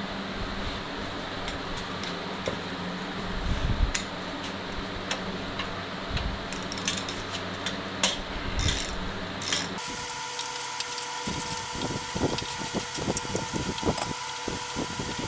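Workshop sounds of hand tools on metal engine parts: scattered clicks and clanks over a steady background hum. About ten seconds in the background changes abruptly, and a run of quick clicks and knocks follows.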